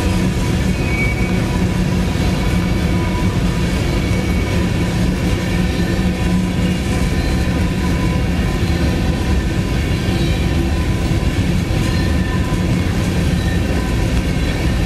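A crude oil train's tank cars rolling past: steady, loud noise of steel wheels on rail, with faint thin high tones running through it.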